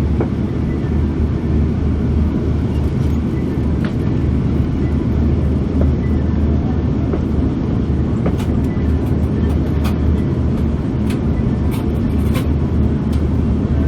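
Steady cabin roar inside an Airbus A340-600 airliner on approach, made of engine and airflow noise with a strong low rumble. A few faint clicks come through in the second half.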